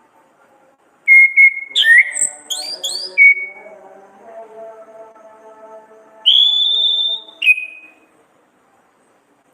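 Orange-headed thrush (anis kembang) singing: a quick run of clear whistled notes and upward-sliding phrases about a second in, then after a pause one long high whistle ending in a short lower note.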